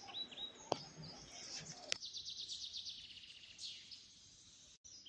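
Faint songbirds chirping: a few short falling chirps near the start, then a fast trill lasting about a second and a half.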